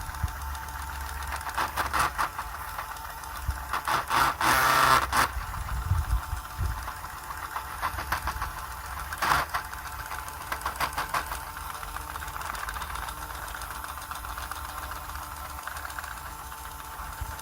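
A small electric motor running steadily with a low hum, and bursts of clicking and rattling about 2, 4 to 5, 9 and 10 to 11 seconds in.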